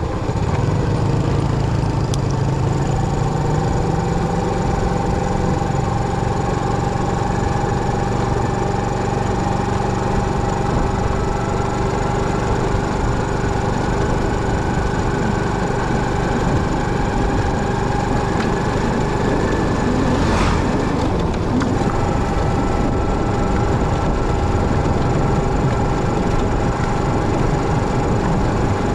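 Motorcycle running steadily on the move: a low engine rumble with a steady whine above it. A short rush of noise comes about two-thirds of the way through.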